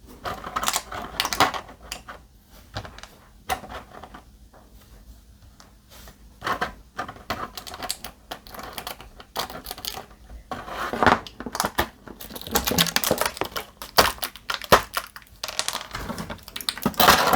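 Small diecast model-kit parts, the tires and wheels, being handled on a work surface: irregular clicks, taps and light rattles, coming in short clusters.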